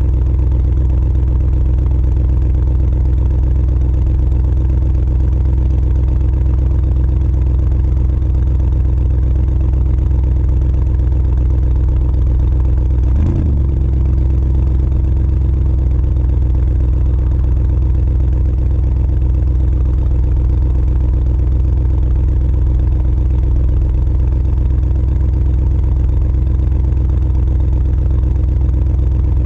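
2020 Audi RSQ8's twin-turbo V8 idling steadily through an exhaust with all three resonators deleted, a deep, even drone, with one brief blip about halfway through.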